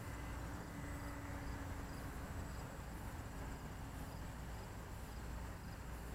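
Crickets chirping faintly in a steady rhythm of about two chirps a second, over a low steady rumble.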